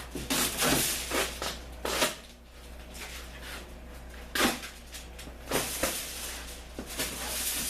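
Cardboard being pulled and handled: a series of short rustling scrapes and knocks, about half a dozen, with a steady low hum beneath.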